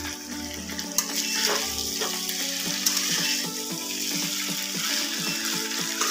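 Spiced boiled potato chunks sizzling in a metal kadai as they are stirred and tossed with a flat spatula. The spatula clicks sharply against the pan a couple of times.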